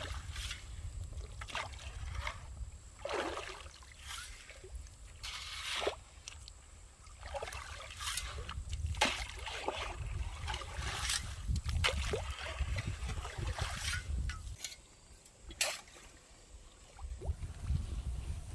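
Water sloshing and splashing in a shallow stream in short, irregular bursts, over a steady low rumble.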